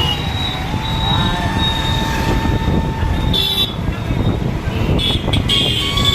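Steady rumble of road traffic, with short vehicle horn toots about three and a half seconds in and again about five seconds in.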